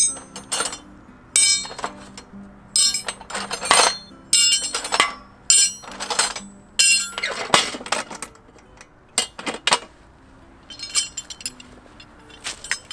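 Repeated metallic clinks and clatter of hard objects being handled and knocked together, in irregular clusters with a bright ringing after each strike.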